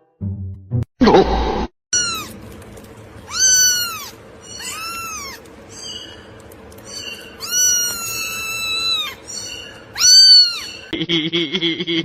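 Cat meowing repeatedly: about six high-pitched calls that rise and fall in pitch, one drawn out longer than the rest. A short noisy burst comes about a second in.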